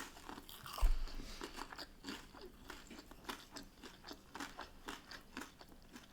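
Close-up chewing of crunchy takeaway fish and chips, a run of quick crisp crunches, with one louder low thump a little under a second in.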